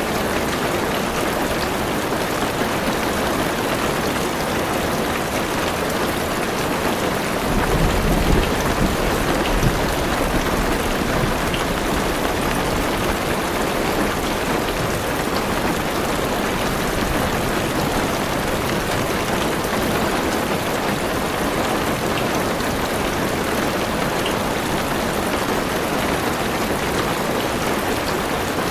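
Heavy rain drumming steadily on a car roof and windows. A low rumble of thunder swells about a quarter of the way in and fades a few seconds later.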